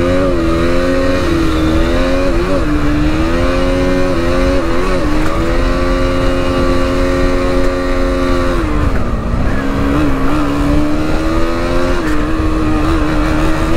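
KTM Duke's single-cylinder engine under way on the road, pitch rising as it pulls away, holding steady with a few short dips as the throttle eases, then falling to a lower steady note about two-thirds through. Wind noise rushes underneath.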